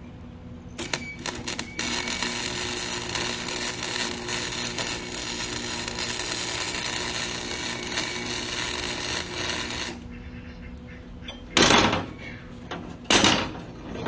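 Lincoln Electric flux-core wire welder laying a weld on rebar: a few short sputtering arc starts, then a steady crackling arc for about eight seconds. Two loud knocks follow near the end.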